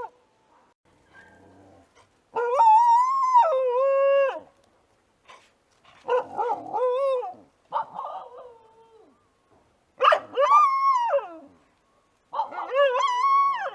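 Australian dingo howling in five short calls, each lasting one to two seconds with brief gaps between. The pitch of each call wavers or steps up, then slides down at the end.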